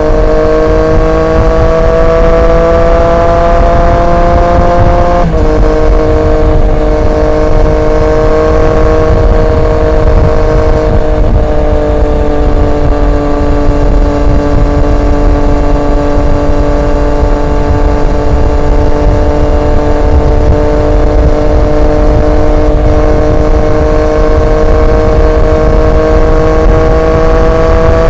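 Triumph Street Triple 765 RX's inline-three engine through an SC Project S1 exhaust, under way with revs slowly rising, then an upshift about five seconds in that drops the pitch sharply. It holds steady revs after that, with the revs climbing again near the end, over a low rushing noise.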